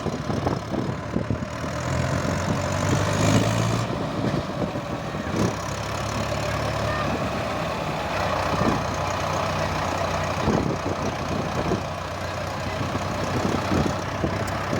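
Mahindra tractor's diesel engine running steadily, with a few short knocks.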